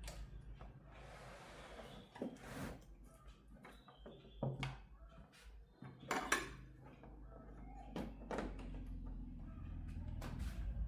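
Irregular clinks, taps and knocks of tools and hard parts being handled and set down on a work surface, the loudest knock about six seconds in, over a low steady hum.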